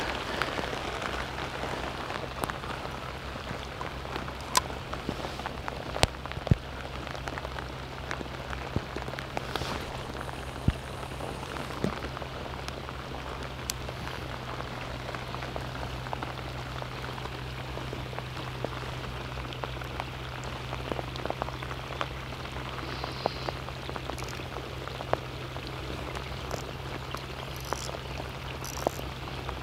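Heavy rain falling steadily, with scattered individual drops ticking sharply close by, over a steady low hum.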